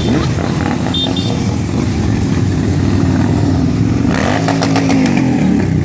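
Motorcycle engines running, with one bike revving up and back down about four seconds in.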